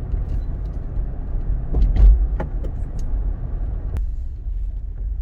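Low, steady rumble of a car with a few light clicks and knocks, and a sharp click about four seconds in, after which the higher part of the noise falls away.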